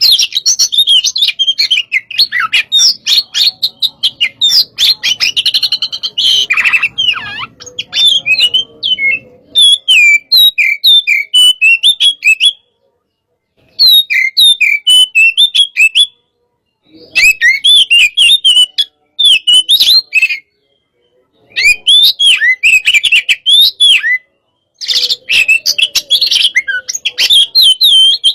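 Oriental magpie-robin (kacer) singing a fast, aggressive 'hot-type' song of rapid, varied chirps and whistles. The song comes in dense runs broken by several brief pauses.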